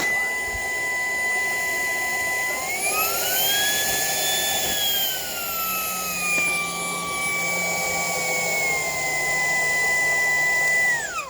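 Shark Power Detect cordless vacuum running with a steady high whine. About two and a half seconds in the motor pitch rises, holds for a couple of seconds, then slides gradually back down. Near the end it winds down quickly and stops.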